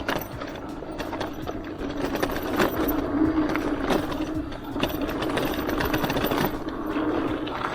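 Hardtail mountain bike rolling over a rough dirt trail: tyre noise with a rapid, continuous rattling and clicking from the bike.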